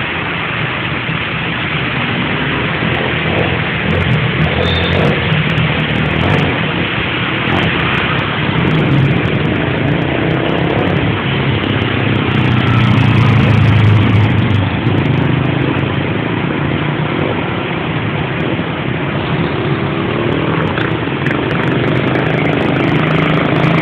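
Heavy rain pouring steadily, with a low rumble underneath that swells about halfway through.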